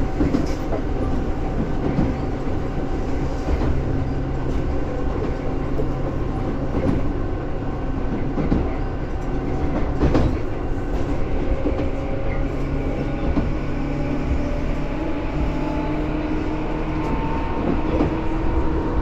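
Tobu 10000 series electric train running, heard from inside the car: a steady rumble of wheels on rail with scattered clicks from rail joints. In the second half a motor whine slowly rises in pitch as the train picks up speed.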